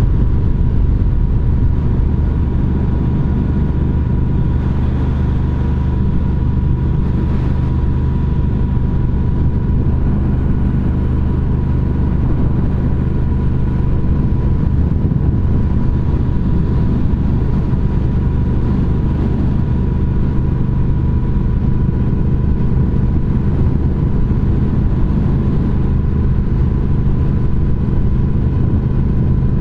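A 2021 Triumph Speed Twin 1200's 1200 cc parallel-twin engine running steadily through British Customs Turnout exhaust tips, the bike cruising at an even throttle.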